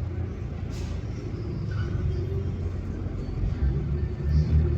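Airbus A330 jet engines heard from a distance as a steady low rumble, swelling slightly near the end.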